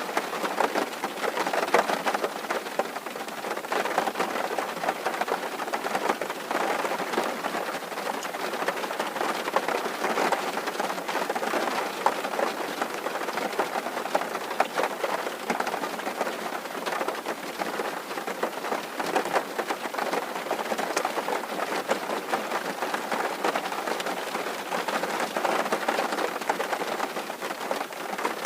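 Rain falling steadily on a tin roof: a dense, even patter of countless drops striking the metal, with no lulls.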